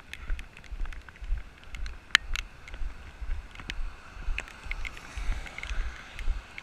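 Walking footsteps in the rain, dull thuds about twice a second carried into a GoPro, with scattered sharp ticks of raindrops and some wind on the microphone.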